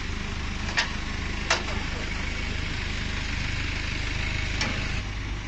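CNC router running with a steady low mechanical hum, broken by three short sharp clicks.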